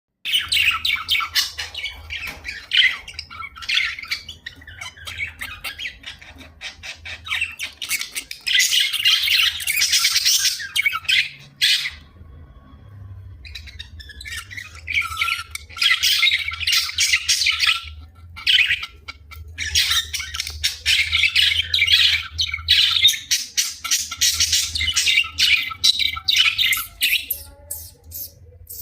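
Pet budgie chattering and squawking in long runs of rapid, sharp, high-pitched calls, with a pause of about two seconds near the middle.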